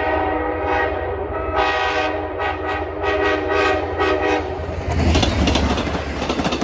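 A diesel locomotive's multi-note air horn sounds in several blasts as a CTrail commuter train approaches. About five seconds in, the train rushes past close by with the heavy rumble of the locomotive and the wheels clattering on the rails.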